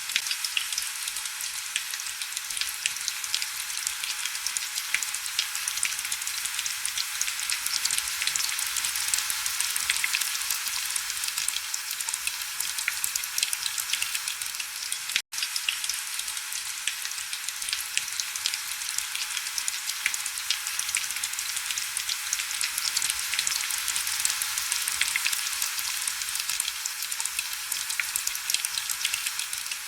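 Steady heavy rain: a dense hiss full of fine crackling drop ticks, with little low rumble. It cuts out for an instant about halfway through.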